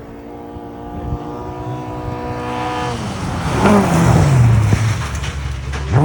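Rally car engine running hard as the car approaches on a gravel stage. The note drops steeply as it passes at speed amid loud gravel and tyre noise, then climbs sharply again near the end.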